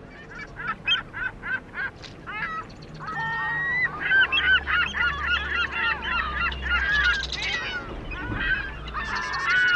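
Many bird calls overlapping, as from a flock: a quick series of short calls at first, then a dense chorus from about three seconds in, cut off abruptly at the end.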